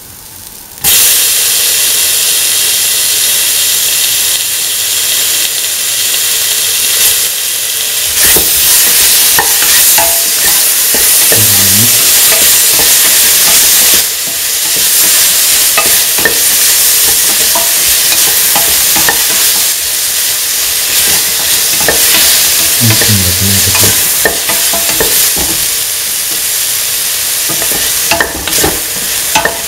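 Okra, shallots, chillies and tomato pieces frying in hot oil in a stainless steel pan, sizzling loudly while being stirred with a spatula. The loud sizzle starts suddenly about a second in.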